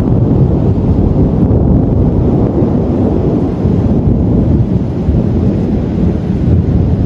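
Loud, continuous rumble of rolling thunder during a thunderstorm, deep and steady with no clear single crack.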